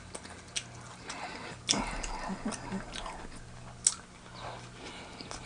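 A person chewing and biting food close to the microphone: soft wet mouth sounds with a few sharp clicks.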